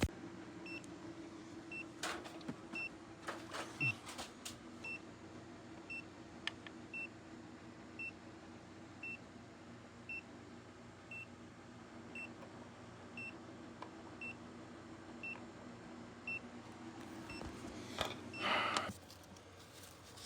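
A short high electronic beep repeating evenly, a little more than once a second, over a steady low hum, with scattered clicks and a brief scraping rustle near the end.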